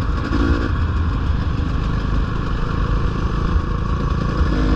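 Dirt bike engine running steadily as the bike is ridden.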